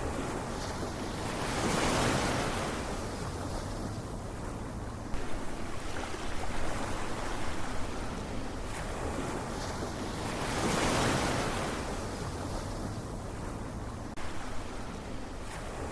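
Ocean waves surging and washing, rising and falling in two slow swells about nine seconds apart, with a choppier rush of water between them.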